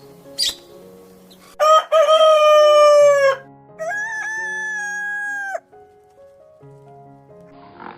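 A rooster crowing twice: a loud crow, then a second, quieter, higher and flatter one. Soft background music plays underneath.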